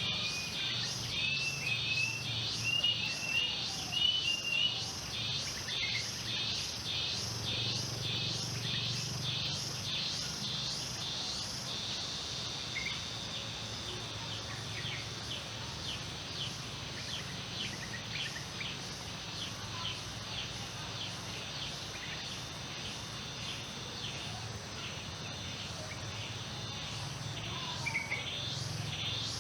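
Insects chirping in a fast, even pulse of about two to three chirps a second, which gives way after about twelve seconds to a steady high trill and returns near the end. Birds give a quick run of short rising chirps in the first few seconds, with a faint low hum underneath.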